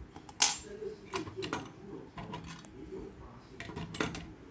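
Small clicks and scrapes of a Lightning cable's plastic parts being worked apart by hand: one sharp click about half a second in, then several lighter clicks and scratches.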